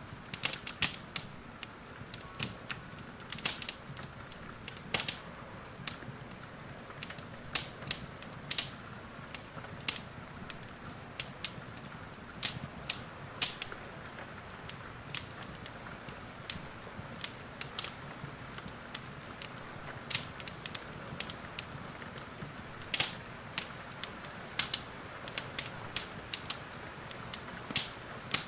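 Wood fire crackling in a fireplace, with irregular sharp pops and snaps, over a steady hiss of rain.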